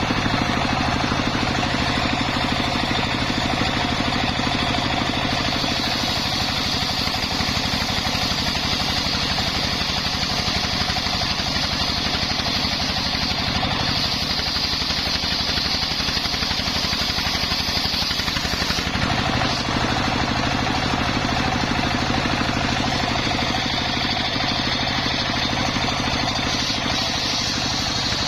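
Engine of a homemade circular saw rig running steadily. From about six seconds in until about nineteen seconds a higher hiss rides over it as the blade cuts through the coconut log. Near the same moment the engine note shifts as the cut ends.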